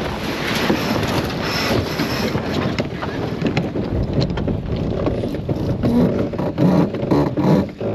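Wind and water noise on a racing sailboat, with frequent clicks and knocks of deck gear as the crew work lines.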